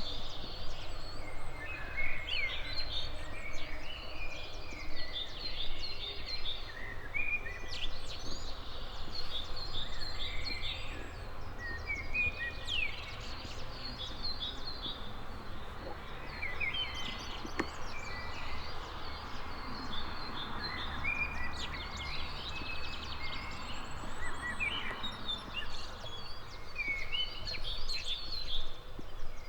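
Several songbirds singing and calling at once, short chirps and trills overlapping every second or so, over a steady low rumble.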